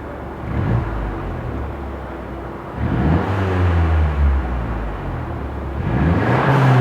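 Mercedes-Benz A250's turbocharged four-cylinder engine accelerating through an aftermarket valved RES exhaust. The pitch rises and falls several times and the sound grows louder near the end.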